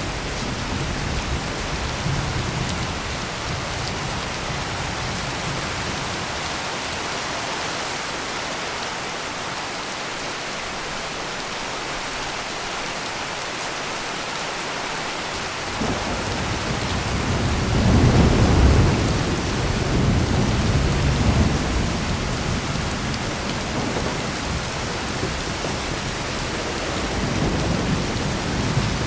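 Heavy rain pouring steadily with a constant hiss. About halfway through, thunder rolls in as a deep rumble that swells to its loudest a couple of seconds later and slowly dies away. A softer rumble of thunder follows near the end.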